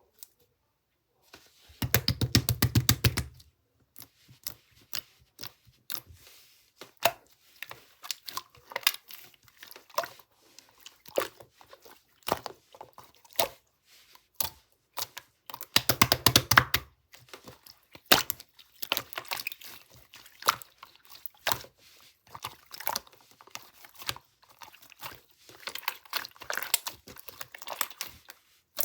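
Close-up crinkling, tapping and crunching handling sounds, with two louder bursts of rapid crackling, one about two seconds in and one past the middle.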